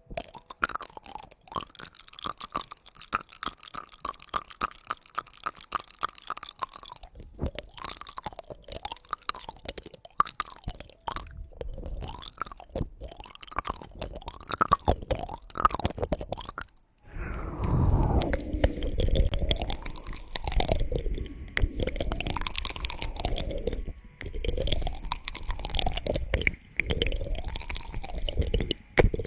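Close-miked ASMR mouth sounds: rapid, wet tongue clicking. About halfway through it becomes louder and fuller, rising and falling in a slow rhythm about every two and a half seconds.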